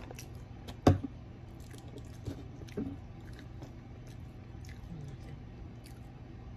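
Close-miked chewing and mouth sounds of someone eating fried jumbo shrimp, with scattered small clicks. A sharp knock about a second in is the loudest sound, and two smaller knocks follow; a low steady hum runs underneath.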